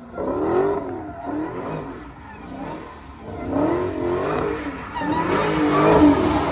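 A vehicle engine revved several times, its pitch climbing and falling with each blip of the throttle.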